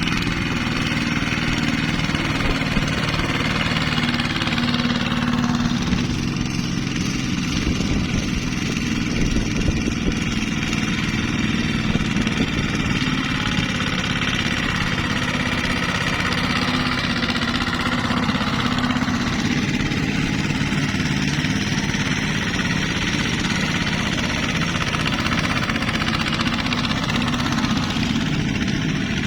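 ZT 155 tractor's engine running steadily while hauling a load of rice, its tone shifting a little a few times.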